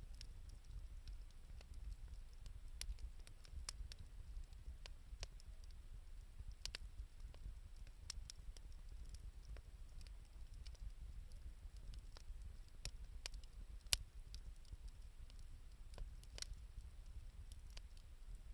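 Wood fire of scrap 2x4 lumber and scavenged wood crackling, with irregular sharp pops over a low steady rumble; one louder pop about three quarters of the way through.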